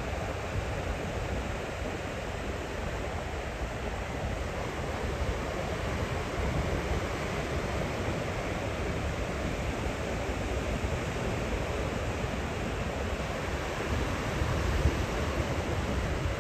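Ocean surf breaking on a beach, a continuous wash of noise with a low rumble.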